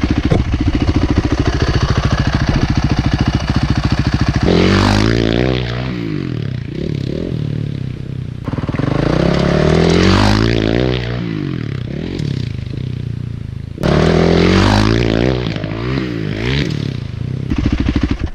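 Dirt bike engine running at a steady pitch for about four seconds, then revving up and down repeatedly as the bike is ridden hard, with a sharp rise in revs about fourteen seconds in.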